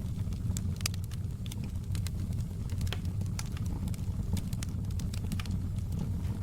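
Wood fire in a fireplace crackling, with many short irregular pops and snaps over a steady low rumble of burning.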